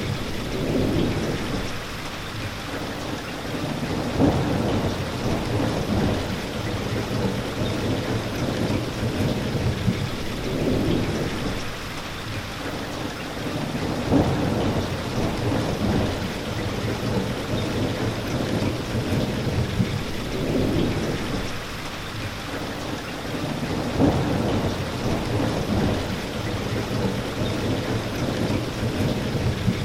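Steady rain falling, with low rolling thunder rumbles that swell and fade every few seconds.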